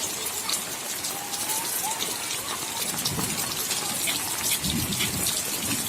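Steady rain falling, with many small drop impacts pattering throughout. A low rumble comes twice, about three and five seconds in.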